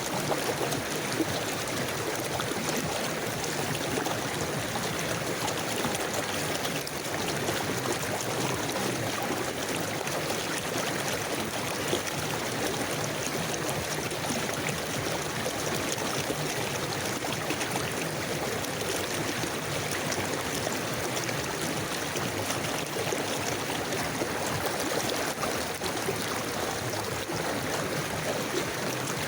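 River water flowing in a steady, continuous rush with a light trickle and gurgle.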